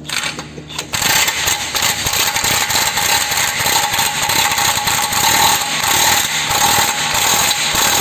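Power wrench hammering as it tightens a nut on the front axle assembly. It starts about a second in and keeps going loud and rapid for about seven seconds.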